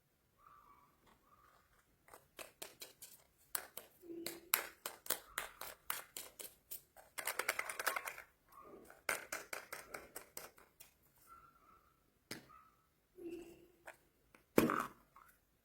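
Plastic candy wrappers being handled and opened by hand: a run of sharp crinkles and crackles, densest about halfway through, with a louder snap near the end.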